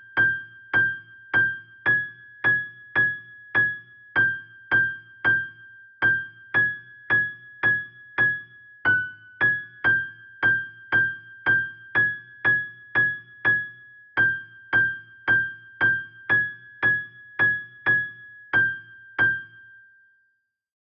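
Electronic keyboard striking one high note, the G6, over and over at about two strikes a second, each note dying away quickly. One slightly lower note comes about nine seconds in, and the notes stop just before the end, with a faint low hum beneath them.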